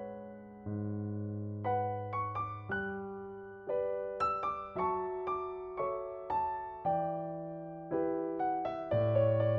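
Background music: solo piano, notes and chords struck one after another and left to fade.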